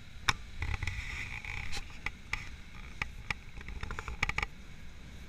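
A train running across a steel truss bridge, heard from inside the carriage: a low steady rumble with irregular sharp clicks and short rattles, several in quick succession near the end.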